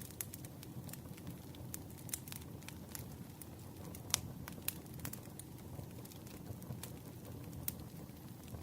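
Campfire crackling: irregular sharp pops and snaps of burning wood over a low, steady rumble of flames, with the loudest pop a little after four seconds in.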